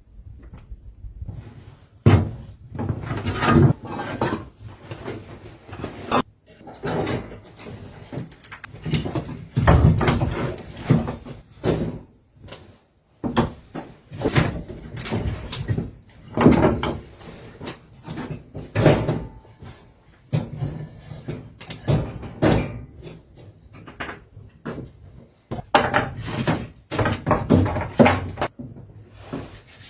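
An irregular series of knocks and clunks, a few every couple of seconds, with rustling and scraping between them.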